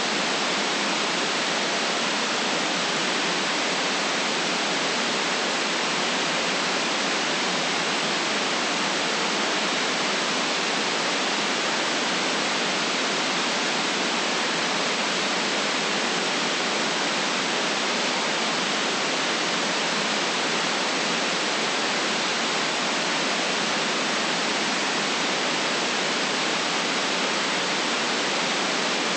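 Steady synthetic white noise: an even, unchanging hiss with the deepest lows and the highest highs cut away.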